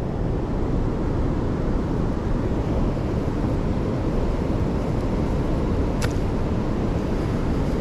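Steady low rumble of wind buffeting the microphone outdoors on the water, with a single short click about six seconds in.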